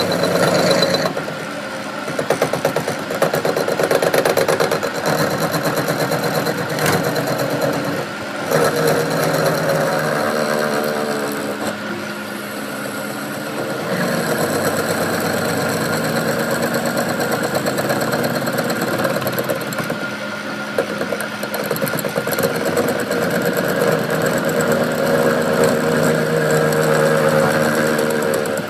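A motor running continuously with a shifting mechanical hum, and a few sharp knocks about seven and eight seconds in.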